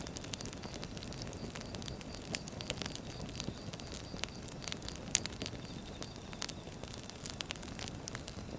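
Firewood logs burning and crackling: irregular sharp pops and snaps over a low steady rush of flame, with one louder pop about five seconds in.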